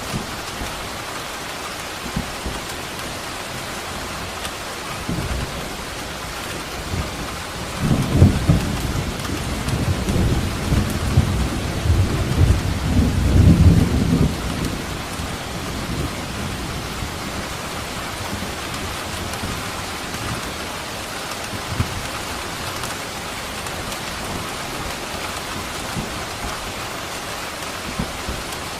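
Steady heavy rain falling, with a roll of thunder rumbling in about eight seconds in, swelling twice and fading out by about fourteen seconds.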